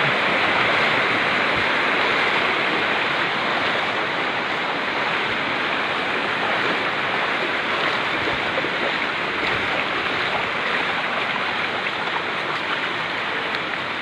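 Flowing floodwater rushing in a steady hiss, easing slightly toward the end.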